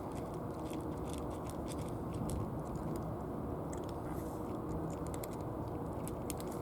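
A cat chewing dry food: irregular crisp crunches, over a steady low outdoor rumble.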